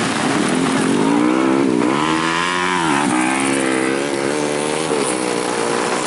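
Racing motorcycle engine passing under throttle, its revs climbing, dropping sharply twice (around two and three seconds in) as the rider shifts or rolls off, then holding steady, over a steady hiss.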